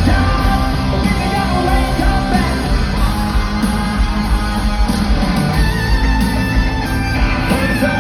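Live rock band playing loudly, with a sung or shouted vocal over the band.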